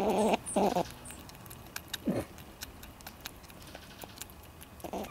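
A squirrel at a bird feeder: a short falling whine about two seconds in, over faint, irregular small clicks. A man's voice is heard briefly at the start.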